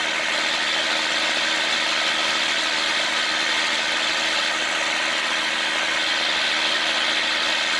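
A boat's diesel engine running steadily at a constant pace, with a dense mechanical clatter and hum.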